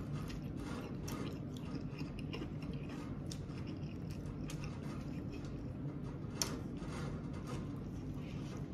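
A person biting and chewing a soft catfish taco close to the microphone: many small mouth clicks, with one sharper click about six and a half seconds in.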